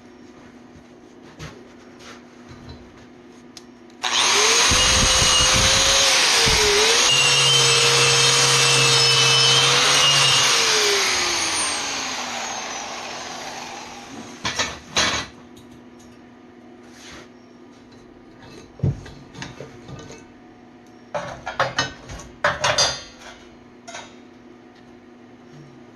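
Electric grinder running against welded steel pipe to clean the weld beads, starting abruptly about four seconds in and running steadily for about six seconds, then switched off and spinning down with falling pitch. Scattered clicks and scrapes of metal being handled follow near the end.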